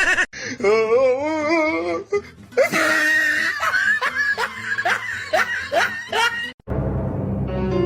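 Laughter, a string of short rising 'ha's, over music, with a low rumbling noise near the end.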